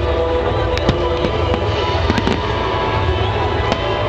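Aerial fireworks bursting: a scattered run of sharp bangs and crackling pops, with music playing along underneath.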